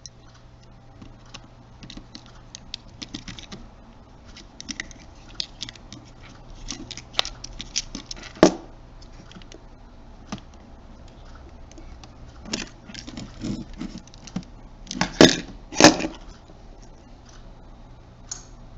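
Small clicks, taps and scrapes of a precision screwdriver and fingers working on the plastic case of a JVC Everio GZ-MS120RU camcorder while its screws are removed. There is one louder knock about eight seconds in and two more close together later on.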